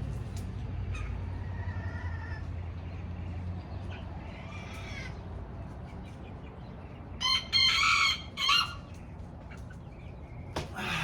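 A rooster crowing once, a loud call in several parts about seven seconds in, with fainter bird calls before it. A low steady hum is heard in the first few seconds.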